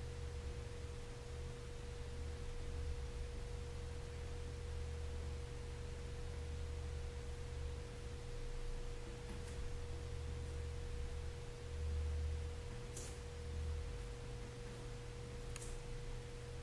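Steady pure tone at one unchanging pitch over a low hum, with a few faint clicks.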